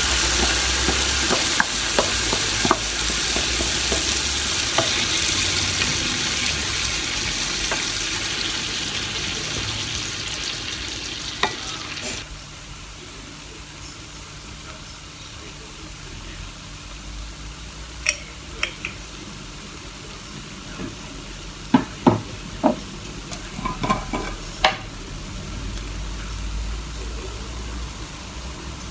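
Food sizzling as it fries in a pan: a loud, steady hiss that slowly fades and drops off sharply about twelve seconds in. A quieter sizzle follows, with scattered light clinks and taps of stirring.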